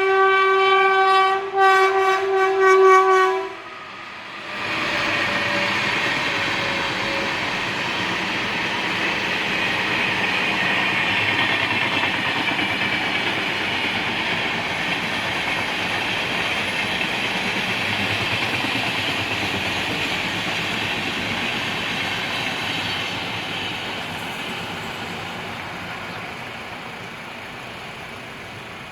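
Express train's locomotive horn sounding a long blast, broken twice by short gaps, then cutting off about three and a half seconds in. The train then passes, its wheels running along the rails in a steady noise for about twenty seconds, fading away near the end.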